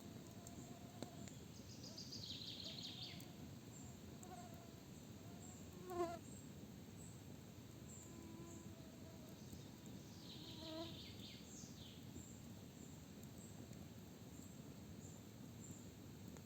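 Quiet forest ambience: birds singing in short trilling phrases twice, with a steady faint rushing underneath. A fly buzzes briefly past the microphone about six seconds in, the loudest moment, and again more faintly near eleven seconds.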